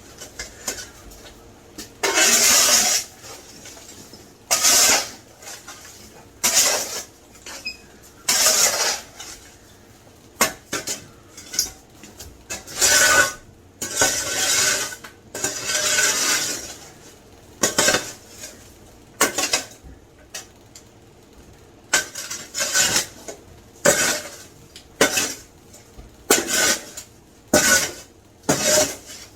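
Broken brick and rubble being cleared up: a long run of separate scraping and clattering strokes, about one every second or two.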